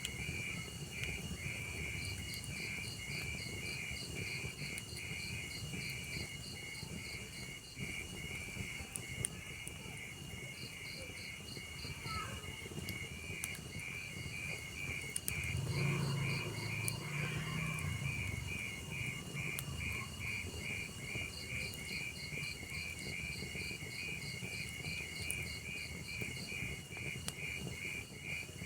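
Crickets chirping in fast, even pulses over a low hiss with scattered faint pops, as from a crackling wood fire. A louder low rumble comes in briefly about halfway through.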